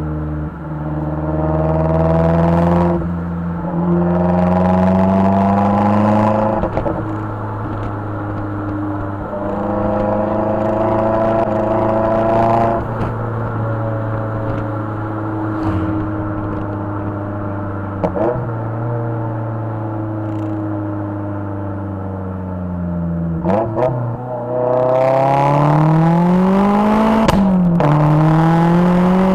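Turbocharged Mazdaspeed 3 four-cylinder running through a cat-back exhaust with a catless downpipe, accelerating through the gears. The engine note climbs in pitch and drops back at each upshift, holds a steadier cruise in the middle, then pulls hard again near the end.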